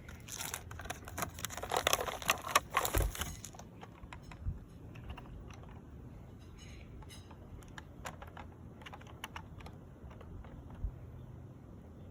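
Light clicking and rustling of objects being handled, busy for the first three or four seconds, then only scattered faint clicks.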